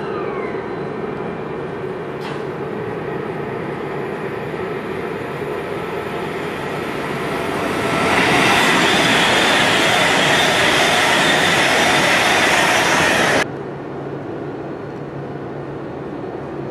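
A Class 390 Pendolino electric express passing through at speed. A rising rush builds about eight seconds in, becomes a loud, steady roar of wheels and air with a high whine in it, then cuts off abruptly near the end.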